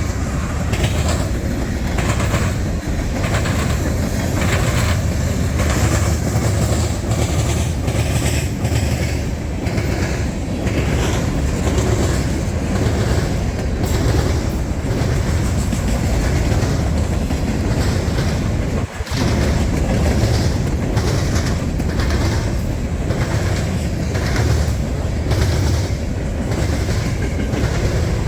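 Freight train cars rolling past, their wheels clacking over rail joints in a steady, repeating rhythm.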